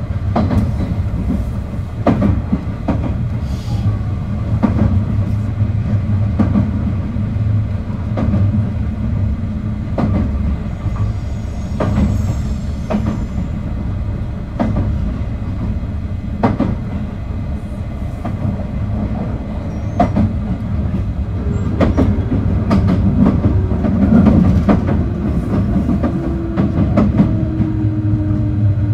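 JR 221 series electric train running, heard inside a motor car: a steady rumble of wheels on rail with a sharp rail-joint click every second or two. In the last few seconds the traction motors' tone falls steadily as the train slows.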